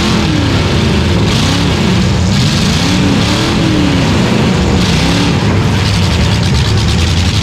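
Demolition derby car's engine heard from inside the cab, revving up and falling back repeatedly under the driver's throttle.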